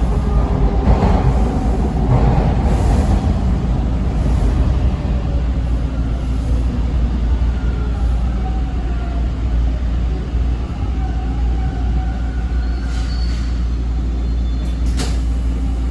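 Toronto subway T1 train heard from inside the car while running: a heavy, steady rumble of wheels on track with a faint motor whine that slides down in pitch and then rises again. A sharp click sounds near the end.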